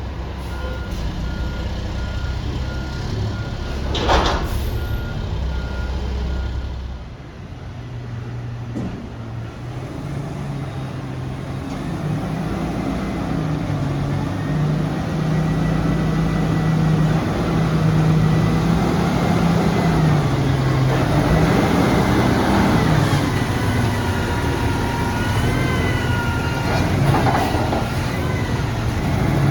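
Front-loader garbage truck: its reversing beeper sounds in a steady on-off beep for the first seven seconds, with a short air-brake hiss about four seconds in. Then the diesel engine revs up and holds high, with a whine that rises and falls.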